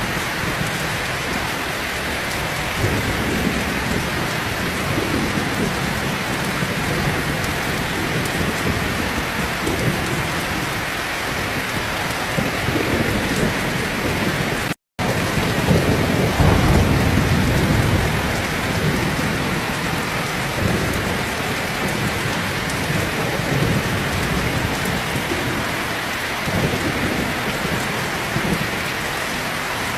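Heavy rain falling steadily, with low rolls of thunder rumbling under it, the loudest just after the middle. The sound cuts out completely for a split second about halfway through.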